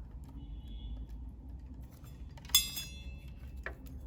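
A single sharp clink with a short ringing tail about two and a half seconds in, then a softer knock, over a low steady hum.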